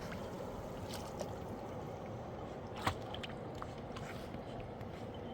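A steady rushing noise like flowing water, with a few sharp knocks, one about a second in and a louder one near the three-second mark.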